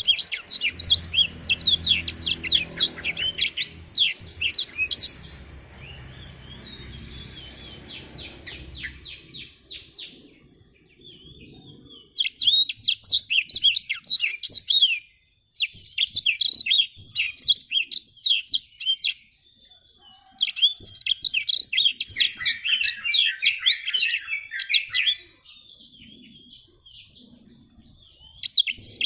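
Blackthroat (black-throated canary) singing in rapid, high twittering phrases, in five bouts of three to five seconds each with short pauses between them.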